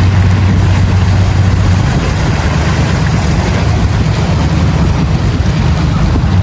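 Boat's engine running steadily with a low hum, under a constant rush of wind and water.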